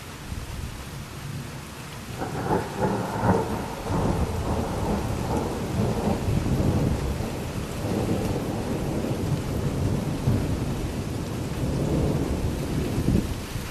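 Thunder rumbling over steady rain: a crackling peal about two seconds in, rolling on as a long, uneven low rumble that eases near the end.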